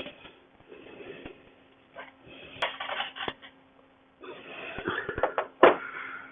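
Rustling handling noise with scattered knocks and clicks and a sharp louder knock about two-thirds of the way in, over a faint steady hum.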